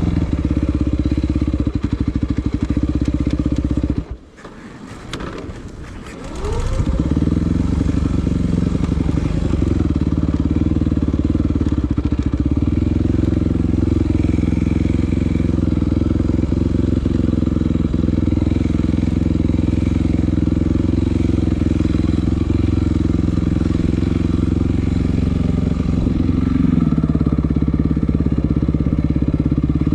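Yamaha WR250F enduro motorcycle's single-cylinder four-stroke engine running steadily. About four seconds in it drops away sharply for a couple of seconds, then revs back up to full level.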